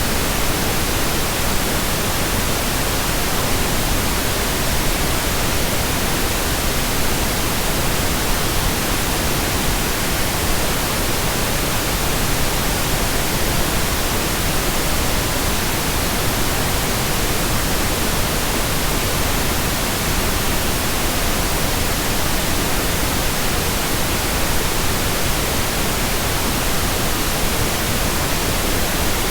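Steady pink noise: an even, unchanging hiss across the whole range, fuller in the low end than white noise.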